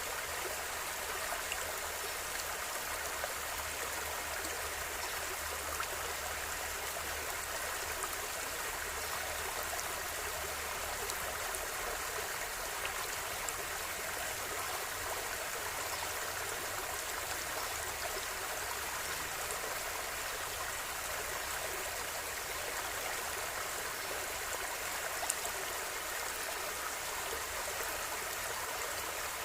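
River water flowing steadily over stones, a continuous rushing and babbling with small splashes and trickles throughout.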